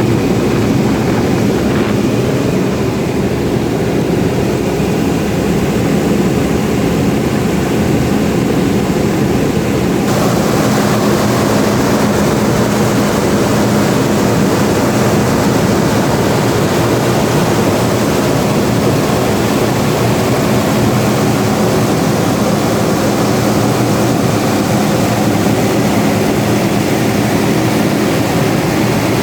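Power generator engine running steadily and loudly. About ten seconds in, its higher-pitched noise grows stronger while the low drone carries on unchanged.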